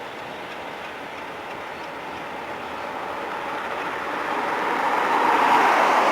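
Train rolling past, a steady rush of wheels on rail that grows louder toward the end.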